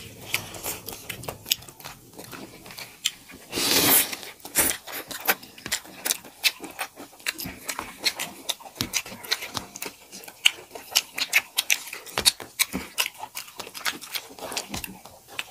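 Close-miked eating sounds of two people eating rice and curry by hand: a dense, irregular run of wet chewing and lip-smacking clicks, with a louder breathy rush about four seconds in.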